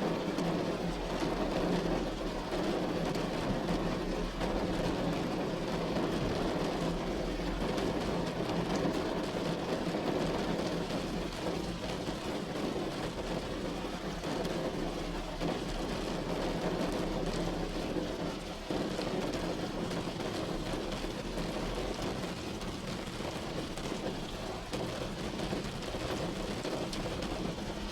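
Steady rain falling on a roof, an even patter with a low hum underneath.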